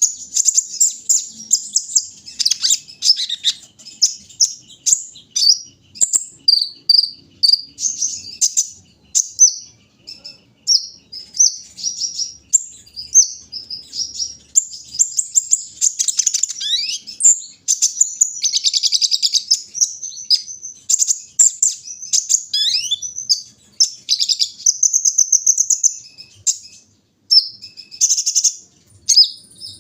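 Sunbird (the 'kolibri ninja' of Indonesian bird-keepers) singing: a long run of rapid, high twittering chirps and trills, broken by a few quick rising sweeps around the middle and a brief pause near the end.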